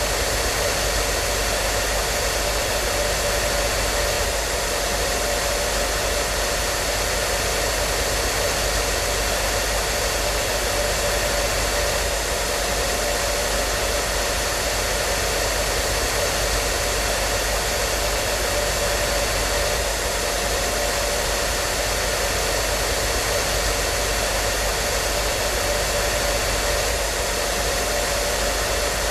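Hair dryer running, a steady even whoosh of airflow with a faint motor hum and no change in speed.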